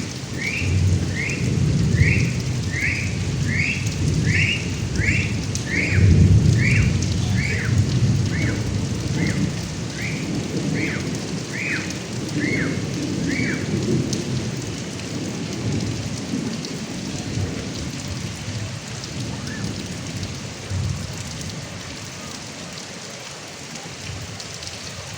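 Heavy rain pouring off a roof gutter, with thunder rumbling low in the first half and easing off towards the end. A high, falling chirp repeats about every 0.6 seconds and stops about halfway through.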